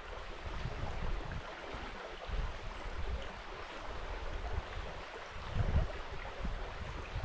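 River water running with a steady rushing hiss, with irregular low gusts of wind rumbling on the microphone, strongest about three-quarters of the way through.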